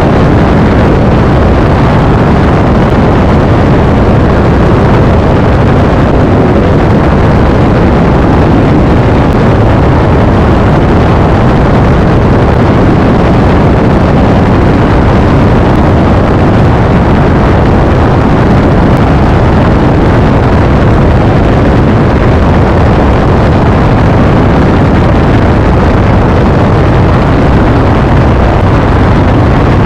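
Cirrus SR20's piston engine and propeller running in flight, a loud, steady drone that holds unchanged throughout.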